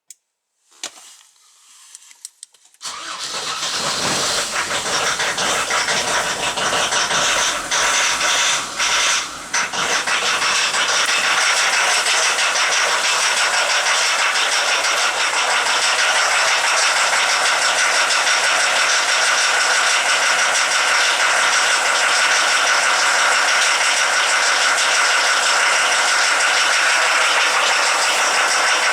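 Diesel engine being started: a click, a couple of seconds of faint cranking, then it catches about three seconds in and settles into steady running. The exhaust note dips briefly a few times around eight to ten seconds in.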